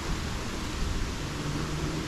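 Steady rain falling in a subtropical rainforest, a continuous even hiss. A faint low hum joins about a second in.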